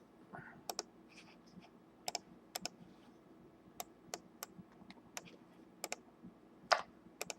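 Faint, irregular clicking of computer keys, about a dozen separate clicks with the loudest near the end.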